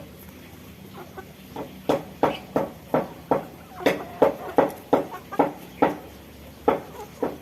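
A bird in an aviary calling in a quick run of short, clucking notes, about two to three a second, starting a second or so in.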